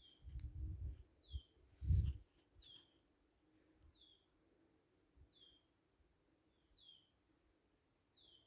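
A songbird repeating a two-note call, a short high note followed by a falling one, about every second and a half. Low rumbling thumps come in the first two seconds, the loudest about two seconds in.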